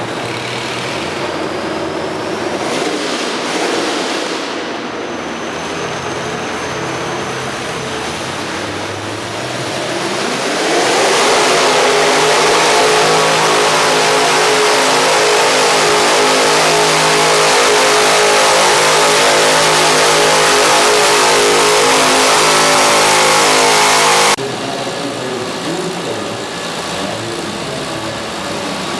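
V8 engine of a minirod pulling tractor revving up about ten seconds in, then running at high revs with a loud, steady note through a pull for about fourteen seconds before it stops suddenly; lower engine noise before and after.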